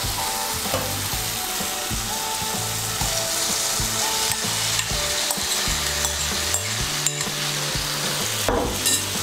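Fried potato pieces and soya chunks go into hot, oily spice paste in a nonstick kadai and sizzle steadily as they are stirred in with a spatula, with scattered clicks and scrapes against the pan.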